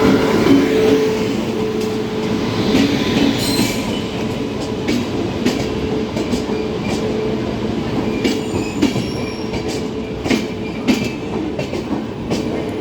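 Passenger train moving through the station: a steady rolling rumble with a held tone from the wheels in the first few seconds, then irregular clicks and clanks from the wheels over the rails.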